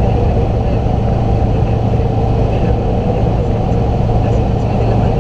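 Range Rover Classic's 2.5-litre VM four-cylinder turbodiesel pulling at a steady speed during a full-throttle run, a constant loud drone with no change in pitch, mixed with road and wind noise.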